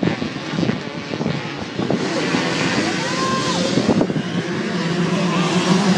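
Off-road race engines of dirt bikes and quads running on the track, their pitch rising and falling as they rev, with a steady drone over the last two seconds.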